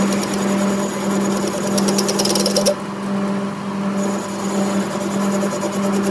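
Workshop machine running with a steady hum and a fast, even mechanical rattle. The rattle stops about three seconds in and starts again about a second later.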